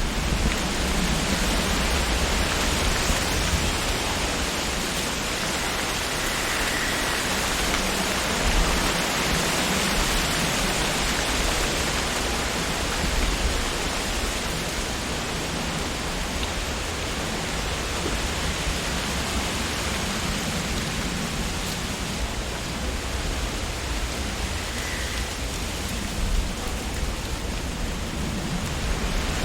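Wind blowing through leafy trees: a steady rustling hiss of leaves with a low rumble underneath.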